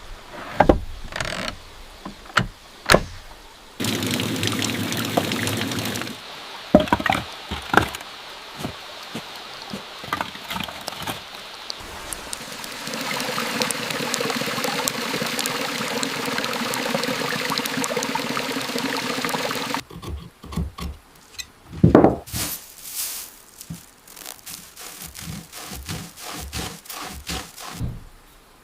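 Water pouring and running in two stretches that start and stop abruptly, with scattered knocks and thunks in between.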